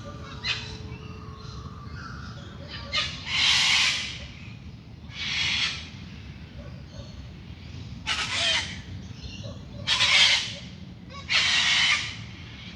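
Loud, harsh bird calls: about seven rasping calls, each lasting half a second to a second, a few seconds apart, over a dawn chorus.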